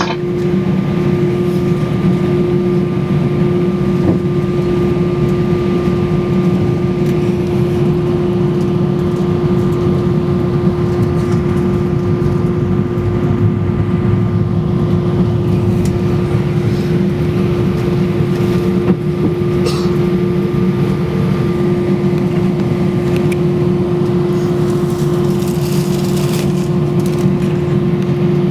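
Airbus A320 cabin noise on the ground: the IAE V2500 engines running steadily at low power, a constant low rumble with a steady hum over it.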